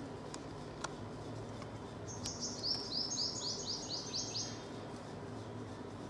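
Purple sunbird singing: a quick run of about ten short high notes, each falling in pitch, the run stepping slightly lower as it goes, starting about two seconds in and lasting about two and a half seconds.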